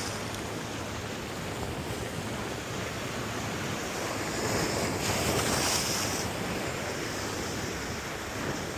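Ocean surf washing against jetty rocks, with wind buffeting the microphone; a wave surges in louder about halfway through, then eases off.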